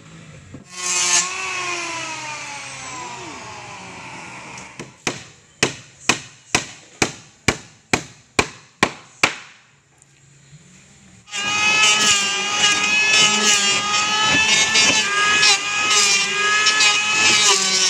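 A handheld power tool starts with a jolt and winds down with a falling whine. Then come about ten sharp hammer blows, a little over two a second. Near the end the tool runs again under load for about six seconds, with a wavering pitch, and winds down.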